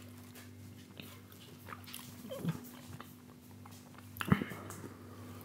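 Close-miked chewing and small mouth sounds from someone eating a soft butter-pastry cheesecake tart, over a steady low hum. There is a sharper click about four seconds in.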